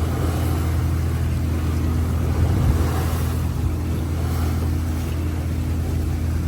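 A trawler's engine running steadily underway, a low even drone, with wind and water noise over it and a brief louder rush a little before halfway.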